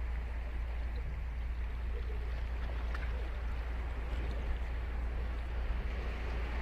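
Ocean surf washing onto a sandy beach: a steady, even rush over a constant low rumble.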